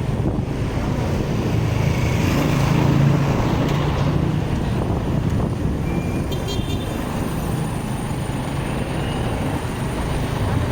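Motorcycle running along a city road amid traffic noise, with a brief high-pitched horn beep about six seconds in.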